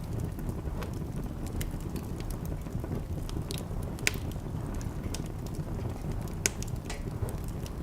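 Wood fire burning in a fireplace: a steady low rumble of flames with scattered sharp crackles and pops, two louder pops about four and six and a half seconds in.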